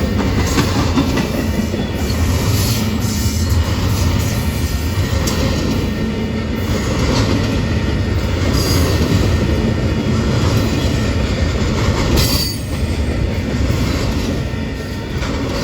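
Freight train rolling past close by: a steady loud rumble of wheels on rail, with scattered clacks and some wheel squeal.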